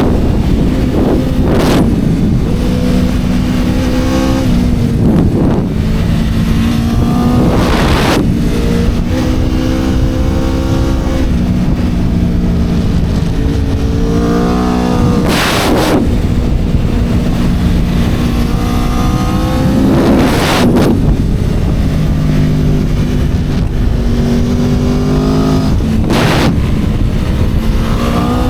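Aprilia RSV4 superbike's V4 engine at racing speed, its note climbing and dropping again and again as it runs up and down through the gears, over a loud rush of wind.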